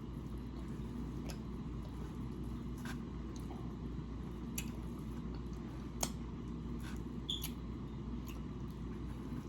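Quiet chewing and wet mouth sounds of a person eating, with a few faint clicks and smacks spread out over a steady low hum.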